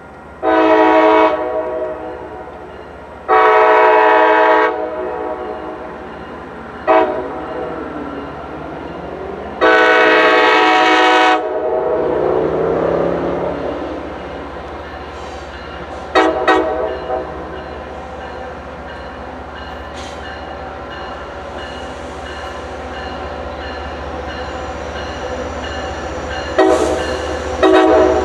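MBTA commuter train's multi-chime horn sounding two long blasts, a short one and a long one, then the train running past with a steady rumble. Two quick short toots come about halfway through, and another blast near the end.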